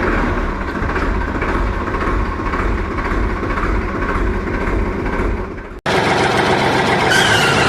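Tractor engine idling with a steady, throbbing rumble that cuts off abruptly near the end. A different steady engine-like sound follows, with a few brief pitched, wavering tones at the very end.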